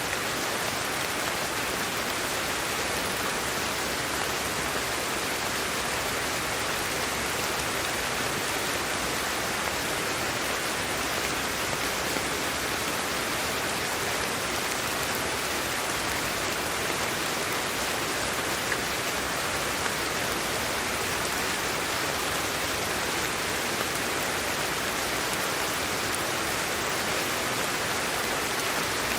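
Steady white noise for sleep: an even, unchanging hiss.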